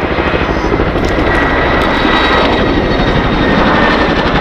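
Boeing Chinook HC.6 tandem-rotor helicopter flying close by: rapid, even beating of its twin rotors' blade slap, with a thin high whine over it.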